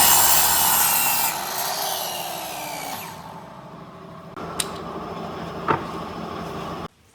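A power tool working wood: loud grinding noise with a wavering pitch that fades away after about three seconds, then a quieter steady run with two sharp knocks, cut off abruptly near the end.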